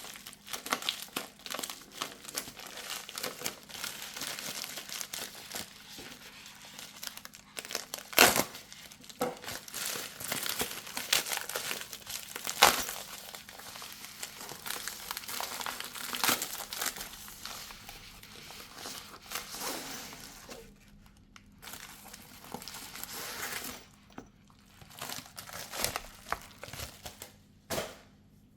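Knife packaging being unwrapped by hand: crinkling and rustling of wrapping, with a few sharp clicks and snaps, the loudest about 8 and 12 seconds in, and short pauses near the end.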